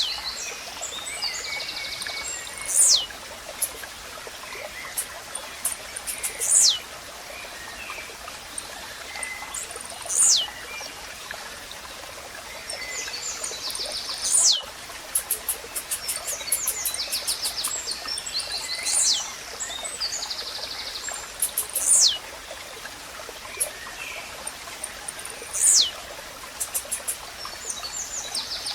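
Blue-black grassquit singing its short, sharp down-slurred "tizíu" song seven times, about every three to four seconds. Other small birds' chirps and rapid ticking trills sound between the songs over a steady hiss.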